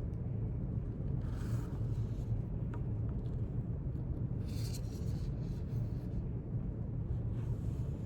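Steady low hum of a quiet room with three brief soft scratchy passes of a pen writing on paper: about a second in, midway and near the end.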